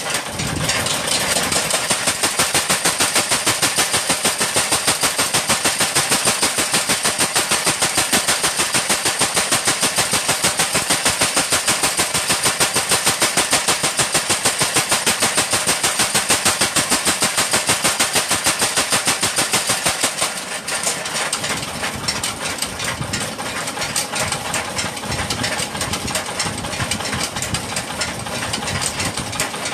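Mechanical power hammer pounding steel in a fast, even rhythm of about five blows a second. After about twenty seconds it drops to a quieter, less regular running.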